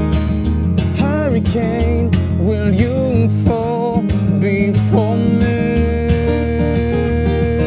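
Acoustic guitar strumming chords, with a wavering sung melody over it that settles into a long held note about halfway through.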